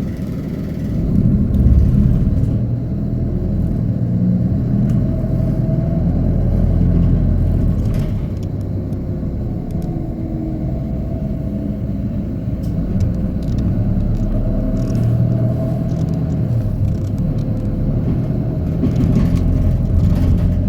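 Hino Poncho small bus running on the road, heard from inside the cabin: a steady low rumble of engine and tyres, with a faint whine that wavers in pitch.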